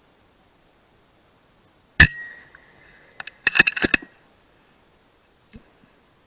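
A single shot from an FX Dreamline .177 PCP air rifle about two seconds in: a sharp crack with a short metallic ring. About a second later comes a quick run of metallic clicks and clinks.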